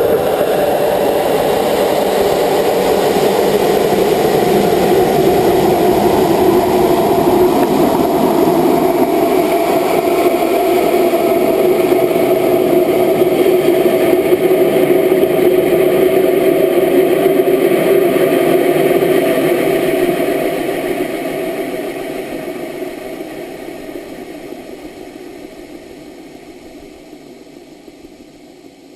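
Rocket motor roaring through liftoff and ascent, steady for about twenty seconds, then fading away as the rocket climbs out of earshot.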